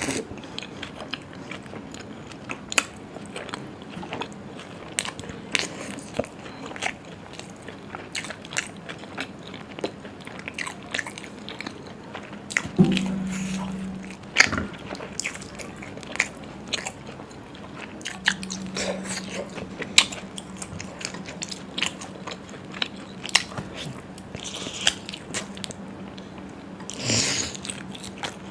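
Close-miked eating sounds: biting and chewing food, with many short sharp mouth clicks and crunches. A low steady hum comes in briefly about halfway through and again for the last third.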